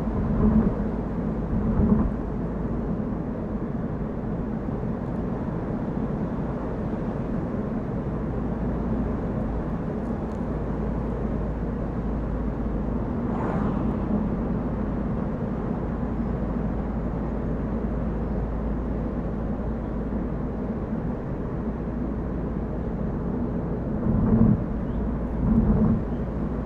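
Steady driving noise from a car on the road: a low rumble of engine, tyres and wind. It swells briefly a couple of times near the start and again near the end.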